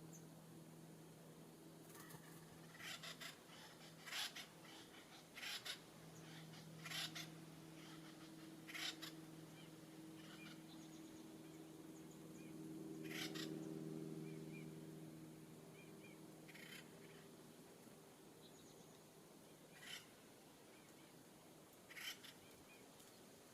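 Faint, scattered short bird calls, about nine of them, heard over a low steady hum that swells briefly around the middle.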